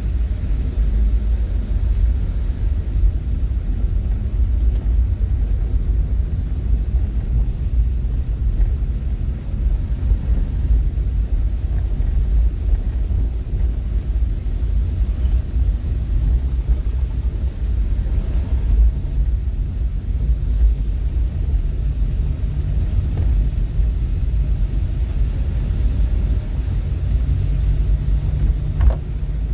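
Steady low rumble of a moving vehicle, an engine hum under road noise, with no breaks.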